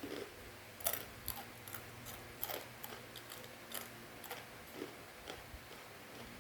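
Crunchy fried macaroni snack being chewed close to the microphone: a string of irregular, crisp crunches.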